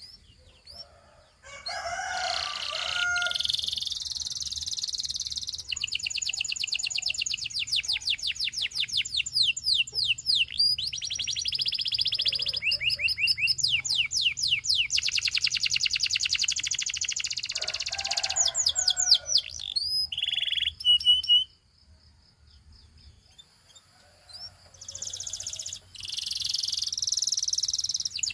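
Domestic canary singing: long rolling trills of rapid, repeated sweeping notes, changing from one trill to the next. The song breaks off for a few seconds about three quarters of the way through, then starts again.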